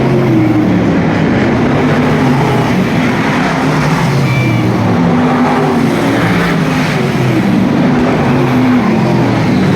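V8 stock car engines racing together, their pitch rising and falling as the cars lap the oval.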